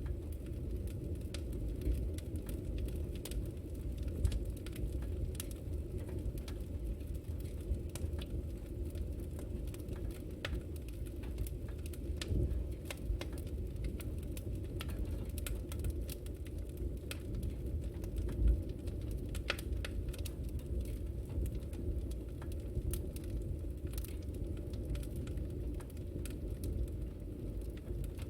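Fireplace fire crackling: frequent small sharp pops and snaps, irregularly spaced, over a steady low rumble.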